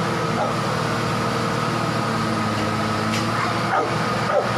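A dog giving a few short, high whines and yips over a steady machine hum.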